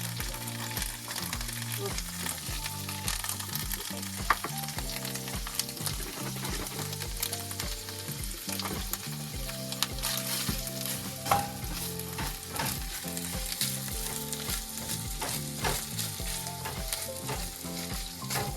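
Onions, sun-dried tomatoes, olives and feta sizzling in butter in a frying pan while being stirred, with scattered clicks of the utensil against the pan. A soft background beat runs underneath.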